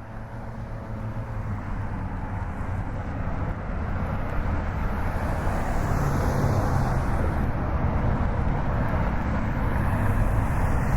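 Steady rumbling noise with a low hum, fading in from silence and growing gradually louder, like a distant aircraft or traffic.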